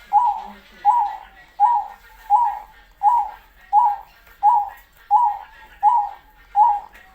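Zebra dove (perkutut) cooing: a long, even series of short coo notes, about ten of them, one every 0.7 seconds or so.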